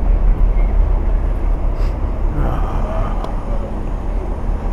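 Steady low rumble of city road traffic, with no distinct single event.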